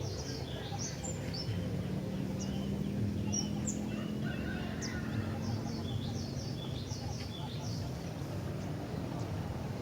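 Sooty-headed bulbul (kutilang) singing a busy run of short chirps and slurred whistled notes, over a low steady hum.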